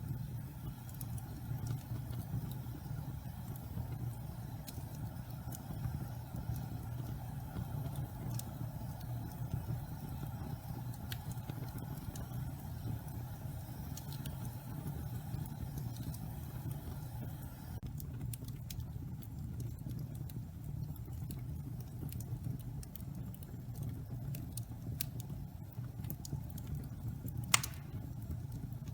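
Wood fire in a fireplace burning damp pine logs: a steady low rumble of flames with scattered sharp crackles, and one loud pop near the end.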